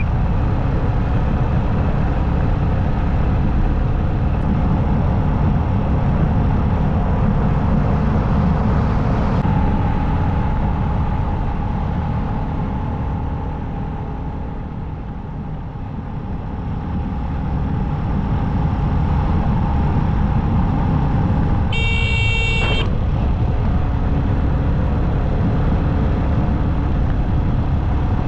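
Motorcycle riding along a road, with steady engine and road noise that eases a little midway. A vehicle horn sounds once, briefly, about three-quarters of the way through.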